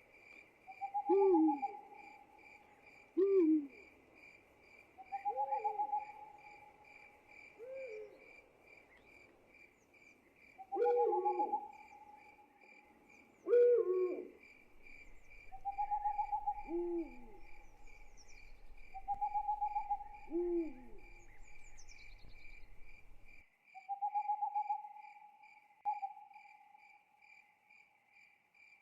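Owl hoots, repeated every few seconds, over crickets chirping in a steady pulsing trill. A low hum runs under the middle part.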